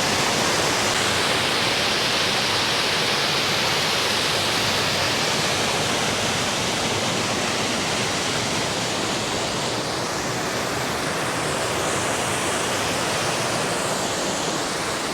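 Roadside waterfall pouring and splashing: a steady, loud rush of falling water.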